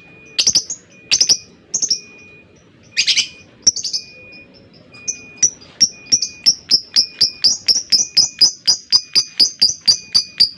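Lovebird calling: a few loud, harsh screeching calls, then from about halfway a long run of sharp chirps repeated about three times a second, getting slightly quicker toward the end.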